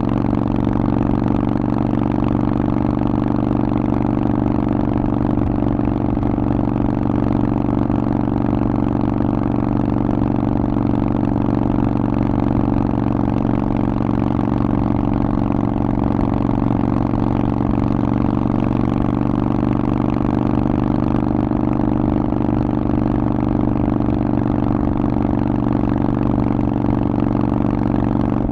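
Harley-Davidson Forty-Eight's 1200 cc air-cooled V-twin running through a Vance and Hines aftermarket exhaust, held at a steady engine speed throughout with no revving.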